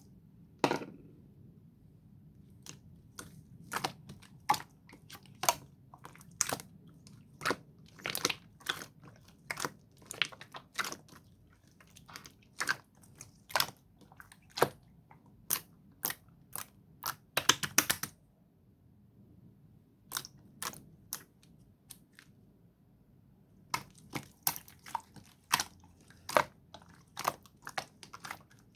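Slime being squeezed and pressed by hand, making sharp, irregular clicks and pops, often in quick clusters. A pause of about five seconds falls past the middle.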